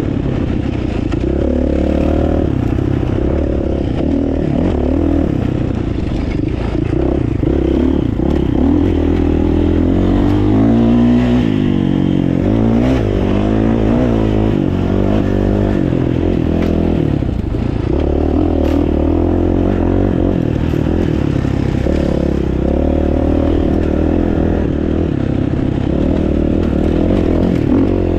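Dirt bike engine revving up and down over and over as the bike is ridden along a trail, with clattering and scraping knocks mixed in.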